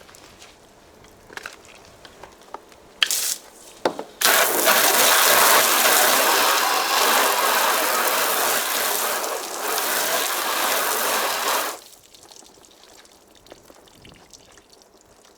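Water spraying from a garden-hose nozzle: two short spurts, then a steady hissing spray for about eight seconds that cuts off suddenly.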